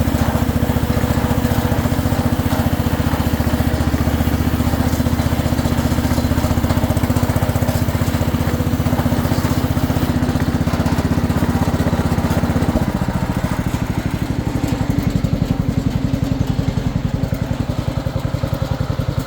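Kohler K321 14 hp single-cylinder engine of a White 114 garden tractor running steadily. About two-thirds of the way through it is throttled down and settles into a smooth, quiet idle.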